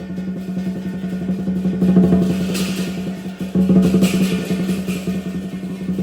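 Lion dance drumming: a fast, continuous drum roll, with two crashes of cymbals about two and a half and four seconds in.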